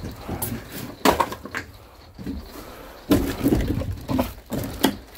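Firewood being handled and set down: a few separate wooden knocks and thuds over a low background rumble.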